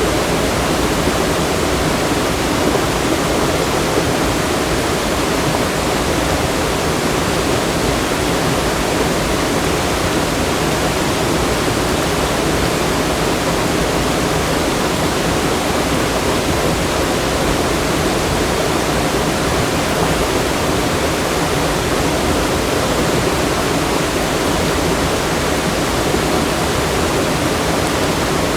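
Loud, steady rush of fast-flowing water, unbroken throughout.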